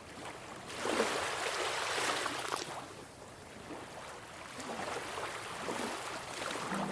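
Ocean waves washing up a pebble beach, surging twice, about a second in and again near the end, with the stones crackling and rattling in the wash.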